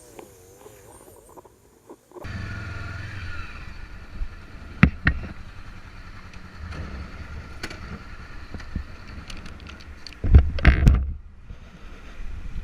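Vehicle engine and road noise with a low rumble and wind on the microphone, starting abruptly about two seconds in. A few sharp knocks are heard, and there is a louder burst of rumble near the end.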